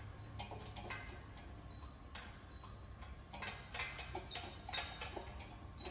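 Irregular light clicks and ticks over a low steady hum, more frequent in the second half.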